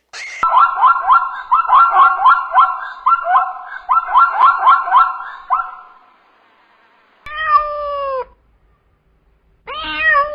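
A rapid run of short, high-pitched calls, several a second, for about five seconds, then a cat meowing twice, each meow drawn out for about a second.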